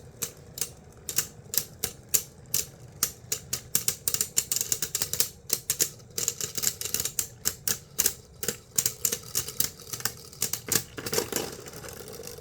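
Two plastic Beyblades with large shields, one of them Gyro Engine Gear, battling in opposite spin in a stadium: rapid, irregular sharp clicks as they collide, several a second.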